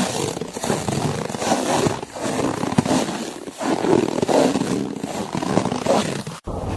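Footsteps crunching through snow, a run of uneven crunches. It cuts off abruptly near the end and gives way to a steady rush of wind.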